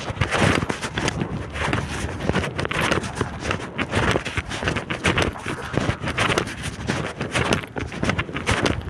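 Strong gusty wind buffeting the microphone in uneven, loud surges.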